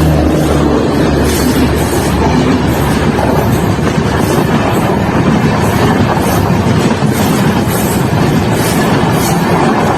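Indian Railways express train running past at speed: a loud steady rumble with the wheels clacking over the rail joints in a regular rhythm.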